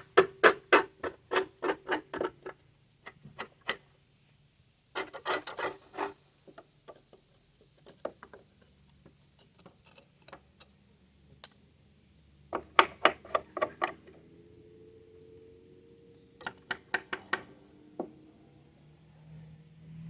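A scraper scraping dried, caked grass off the underside of a Toro 22-inch lawn mower deck. It comes in short bursts of quick strokes, about four a second, with pauses between.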